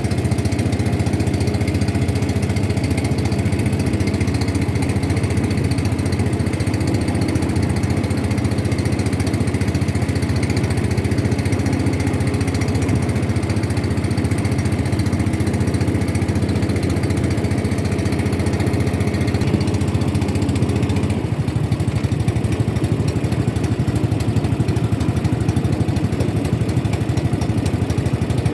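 Boat engine running steadily. About three-quarters of the way through its sound changes and the lower part of the drone thins out.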